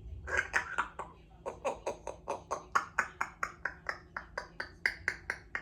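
Congo African grey parrot making a rapid run of short, sharp notes, about five a second, for several seconds.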